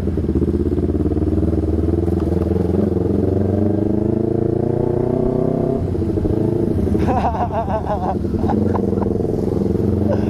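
Honda CBR250RR parallel-twin with an aftermarket Austin Racing exhaust, ridden under way: the engine note climbs steadily, drops sharply at a gear change about six seconds in, then runs on steadily.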